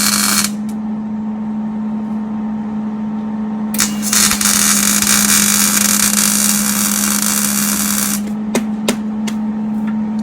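Welding a nut onto a snapped bolt to draw it out: two stretches of steady welding hiss over a constant electrical hum. The second stretch lasts about four seconds. A few sharp clicks follow near the end.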